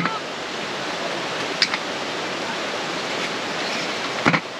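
Steady rush of a mountain valley stream, with two light clicks or knocks, one about a second and a half in and a sharper one near the end.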